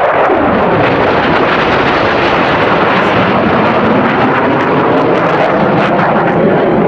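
Blue Angels F/A-18 Hornet jet flying past low. Its pitch drops in the first second as it goes by, then a steady, loud jet roar follows.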